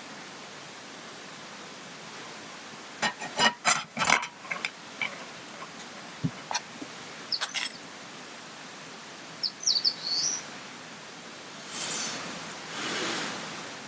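Outdoor ambience: a steady rushing hiss with a bird chirping briefly about two-thirds of the way in. A cluster of sharp clicks and knocks comes about three to four seconds in, and two soft whooshes near the end.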